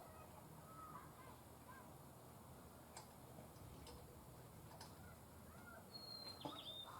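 Near silence, with a few faint short bird chirps and light clicks scattered through it.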